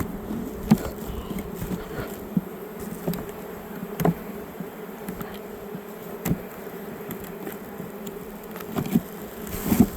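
Honeybees buzzing steadily around an open hive, with a few brief sharp knocks as frames and hive parts are handled.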